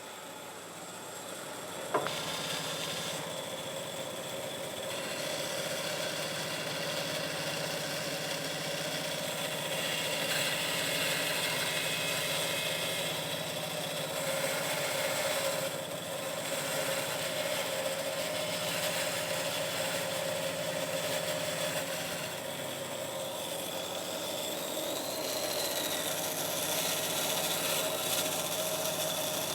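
A woodworking shop machine's motor running steadily with a constant hum and whir, after a sharp click about two seconds in.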